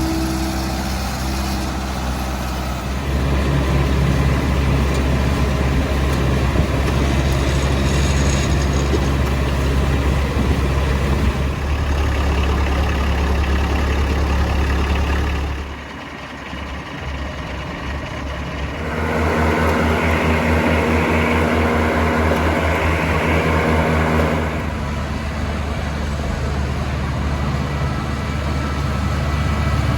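Kubota compact tractor engine running, its sound shifting several times: it gets louder a few seconds in, drops off for a few seconds about halfway through, then comes back stronger before settling again.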